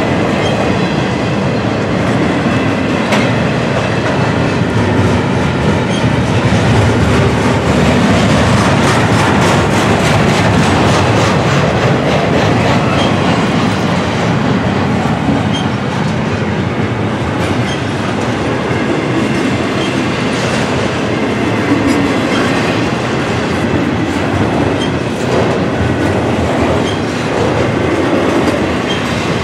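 Double-stack intermodal container cars of a freight train rolling past close by: a steady rumble of steel wheels on the rails, with the wheels clacking over the track.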